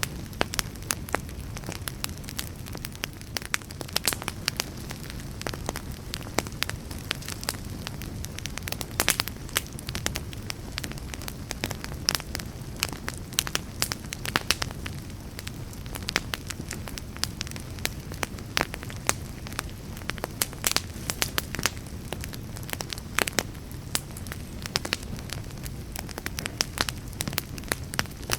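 Wood fire burning, with a steady low rumble and frequent sharp crackles and pops at irregular intervals.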